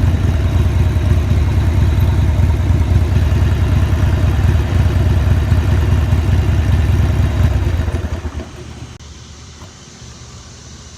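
Motorcycle engine running with a rapid, pulsing low rumble, then shut off about eight seconds in.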